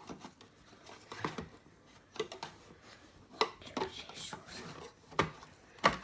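Scattered plastic clicks and knocks as a new brush bar and drive belt are fitted into a Hoover Dust Manager vacuum cleaner, with the loudest knocks near the end.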